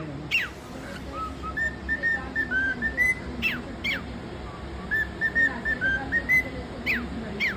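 Cockatiel whistling a short tune of clear notes, repeated twice, with sharp falling chirps between the phrases.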